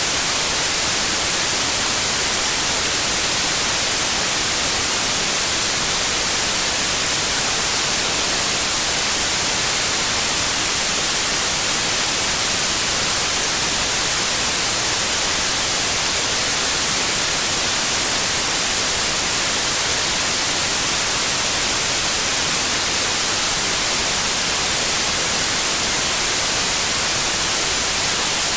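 Steady white noise: an even, unbroken hiss, brightest in the high frequencies, with no changes in level.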